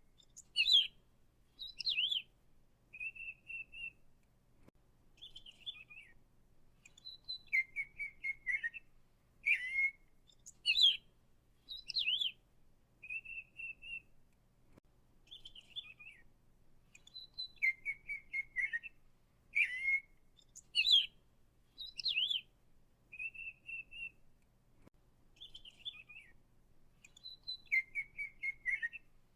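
Songbird singing short whistled phrases and trills, the same sequence of phrases repeating about every ten seconds.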